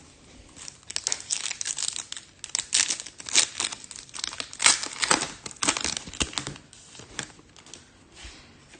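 Foil trading-card pack wrapper being torn open and crinkled by hand, an irregular crackling run of a few seconds that fades out near the end.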